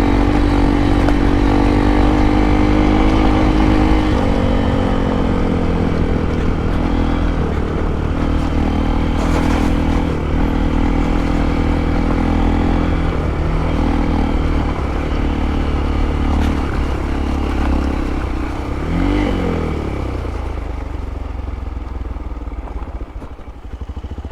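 Modified Hero Impulse motorcycle's single-cylinder engine running under way off-road, with wind rumbling on the microphone. The engine note drops about four seconds in, shifts with the throttle, rises and falls briefly near the end, then eases off.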